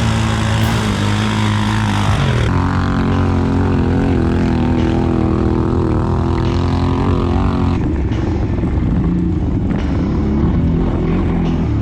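ATV engine running under throttle. The pitch drops sharply about two seconds in as the throttle eases, then holds with a slight waver. It turns rougher about eight seconds in.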